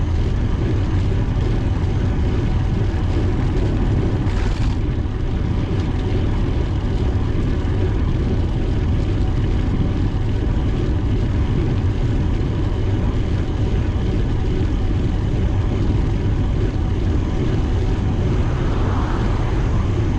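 Steady wind rumble buffeting the microphone of a camera on a moving bicycle, loud and unbroken, with a brief higher hiss about four seconds in.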